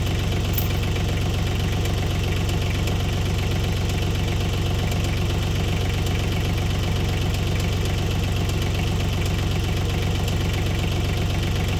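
Bad Boy 4035H tractor engine running at a steady, even speed with a constant low hum and no change in revs.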